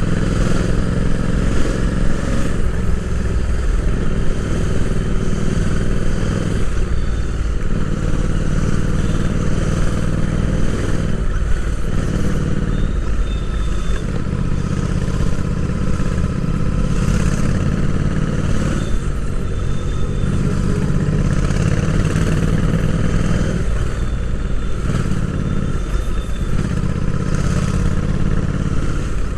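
Royal Enfield Interceptor 650's 648 cc parallel-twin engine, heard from onboard while riding. The engine pulls steadily, and every few seconds its note dips briefly, as at a gear change or when the throttle is rolled off, then picks up again.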